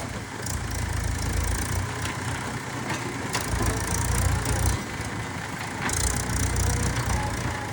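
Diesel engine running and rising in three surges of low rumble, about every two and a half seconds, with a few sharp knocks among them.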